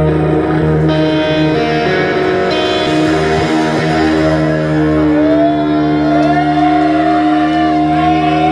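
Live rock band playing, electric guitar prominent, with long held notes ringing throughout. From about five seconds in, a melody line bends up and down in pitch over the held notes.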